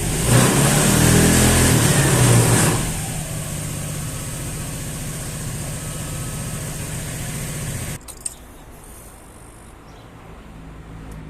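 SYM Jet SL 125 scooter's water-cooled single-cylinder engine revved once for about two and a half seconds, then settling back to a steady idle. About eight seconds in the engine sound drops off abruptly, leaving a faint low hum.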